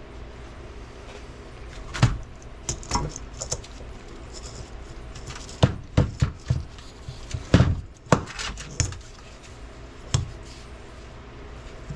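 Steel transfer case parts clinking and clunking as they are handled and set down on a bench, about a dozen separate sharp knocks, the busiest stretch in the middle, over a steady low hum.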